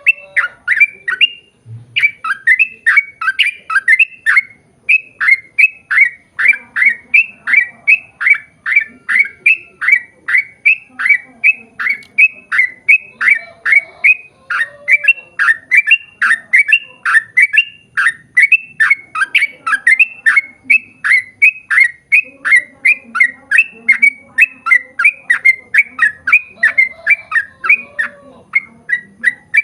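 Yellow-vented bulbul (trucukan) singing a long rapid run of short, sharp falling notes, about three a second, with one brief pause near the start.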